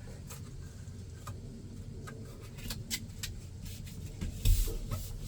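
Handling noise as a cut piece is tried against the van's ceiling ribs: scattered light taps and rustles, with a louder bump about four and a half seconds in.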